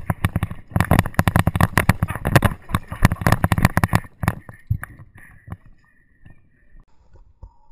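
Airsoft guns firing rapid strings of shots as covering fire, many in quick succession. The shooting thins to scattered shots after about four seconds and stops at about five and a half seconds.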